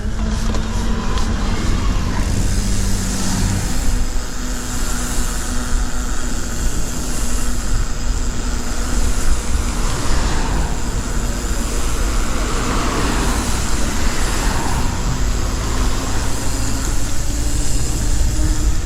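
Steady rushing wind and tyre noise from riding a mountain bike along a town street, with a strong low rumble on the microphone.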